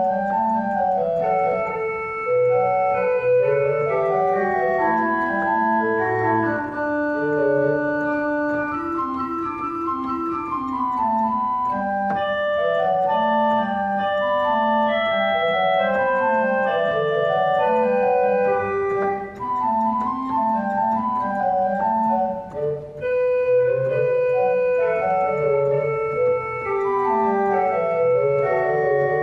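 Church organ playing several parts at once: held notes in the bass with moving lines above.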